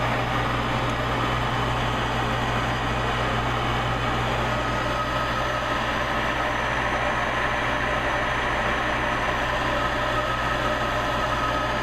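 High-efficiency gas furnace's draft inducer motor running steadily with a low hum, after a call for heat and before the glow-coil ignition.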